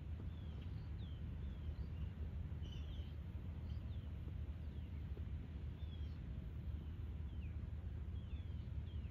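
Birds chirping, short high calls that mostly slide downward, one or two a second, over a steady low outdoor rumble.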